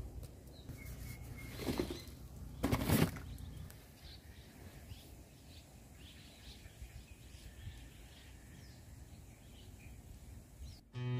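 Faint birds chirping in the background, with two brief scuffing noises about two and three seconds in. Acoustic guitar music starts at the very end.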